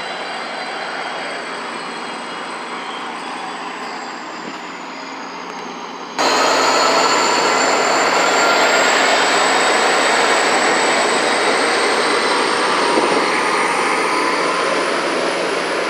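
Caltrain train running on the track: a steady rolling rumble with a thin high whine over it, which abruptly gets much louder about six seconds in.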